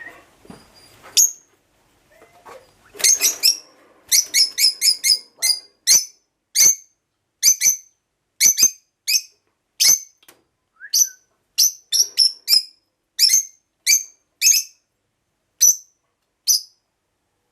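Rosella parrot singing a series of short, sharp, high notes: a quick run of them about three seconds in, then single notes spaced about a second apart.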